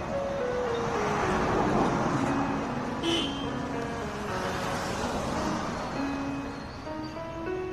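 Road traffic noise with cars passing, under a background-music melody of single notes stepping downward.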